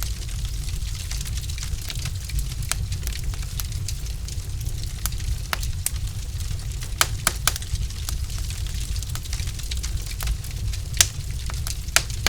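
Wood fire burning in a fireplace: a steady low rumble of flames with frequent sharp crackles and pops from the logs, a few louder pops scattered through.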